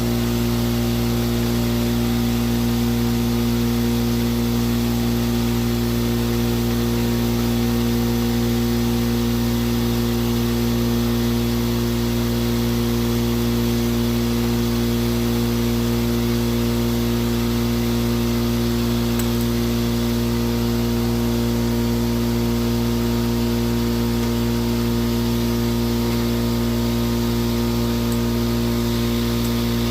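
Air compressor running steadily at an even pitch.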